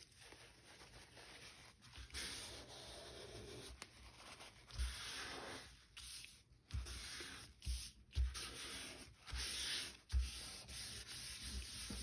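Glued paper being rubbed and pressed flat onto a brown paper bag: stretches of dry rubbing, broken by short pauses, with a few soft thumps.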